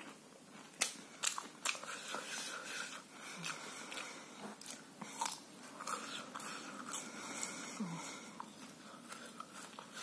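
A person biting and chewing crispy fried food close to the microphone: irregular sharp crunches, the loudest about a second in.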